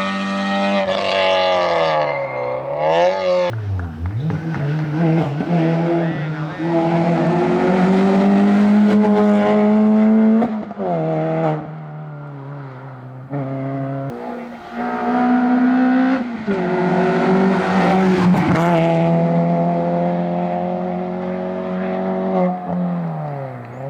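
Rally car engine driven hard on a tarmac stage. Its pitch climbs under full throttle and falls sharply several times at gear changes and when slowing for corners.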